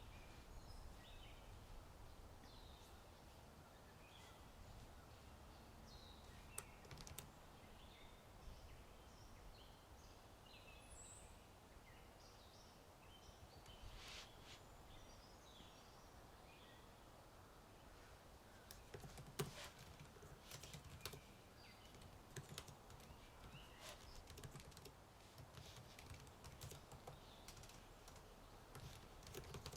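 Faint computer keyboard typing: a few scattered keystrokes, then a steady run of keys from about two-thirds of the way in. Small bird chirps come and go in the first half, over a low outdoor rumble.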